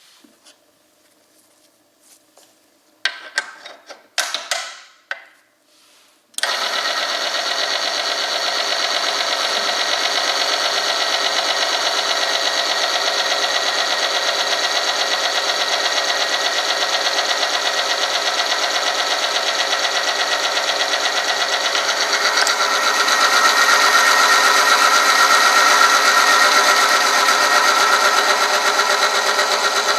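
A few knocks and clicks, then about six seconds in an oil-film friction tester starts: its electric motor spins a steel roller against a test sample lubricated with hot two-stroke oil, running steadily with a whine of metal rubbing under load. In the last third it grows louder and a stronger squealing tone comes in.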